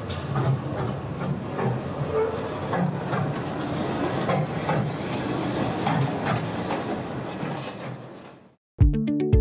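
Locomotive rolling along rails: a steady low rumble and hiss with irregular clicks and clanks, fading out about eight and a half seconds in. Music with a strong beat starts just after.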